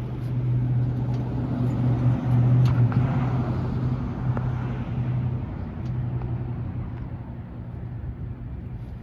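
Mini excavator's small engine being cranked in a start attempt without catching: a steady low drone that breaks off briefly about five and a half seconds in, then resumes more weakly and fades.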